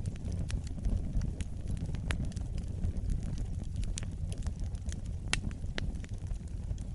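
Wood fire burning with a steady low rumble, crackling and popping irregularly; the sharpest pop comes about five and a half seconds in.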